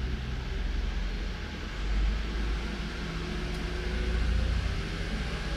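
Toyota Avalon engine running steadily at low speed, a continuous low hum with slight swells in level. The engine has an intermittent misfire on cylinders 1 and 2 that shows mostly when it is cold.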